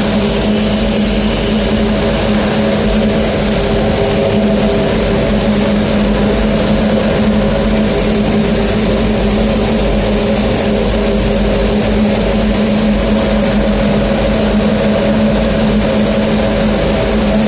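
Gas burner of a rotary furnace firing with its combustion-air blower running: a steady, loud hum with an even hiss over it, unchanging throughout.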